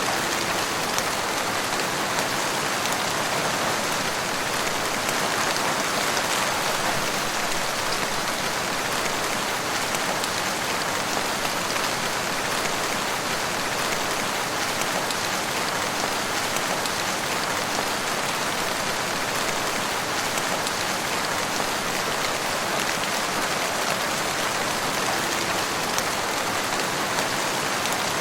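Steady rain falling in woodland: an even hiss of rainfall with the patter of many drops.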